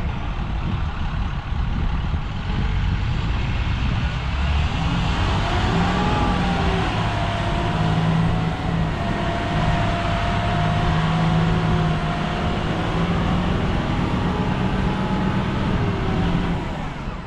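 Vehicle engine running steadily, with a steady whine joining in about six seconds in and fading near the thirteen-second mark.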